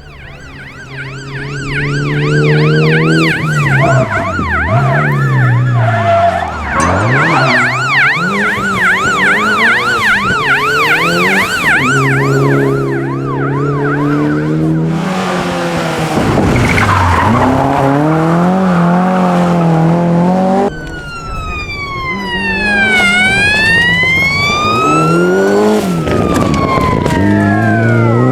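Rally car engine running hard, its pitch climbing and dropping again and again through gear changes. A fast warbling, siren-like tone runs over it for the first twelve seconds or so, and slow sweeping rising-and-falling tones come in after about twenty seconds.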